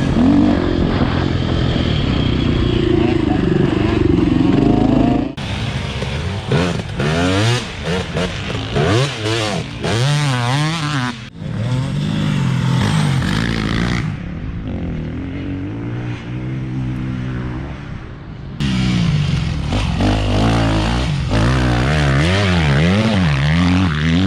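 Dirt bike engine revving up and down, its pitch rising and falling over and over as the bike accelerates and shifts, with abrupt changes in the sound a few times.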